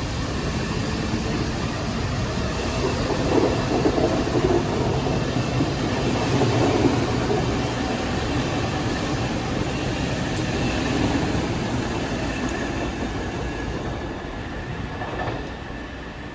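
Long Island Rail Road M3 electric multiple-unit train running through, a steady loud rumble of wheels and cars that fades away near the end.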